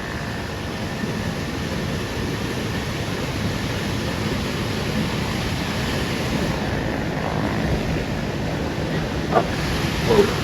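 Whitewater rapids and falls of a big river rushing as a steady, unbroken roar of water.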